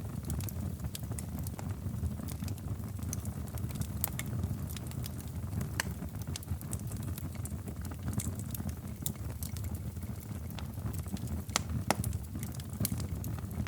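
Wood fire burning in a fireplace: a steady low rumble of the flames with irregular sharp crackles and pops, a few louder snaps scattered through.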